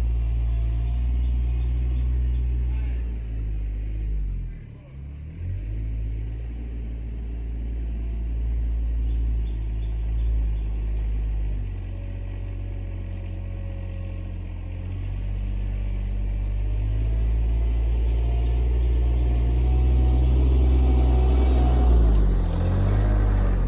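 RK24 compact tractor's engine running under load while pushing mulch, dropping briefly about five seconds in and getting louder near the end.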